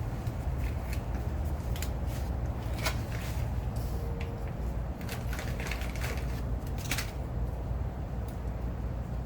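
Scattered clicks and crinkles of exhaust-repair materials being handled, over a steady low rumble.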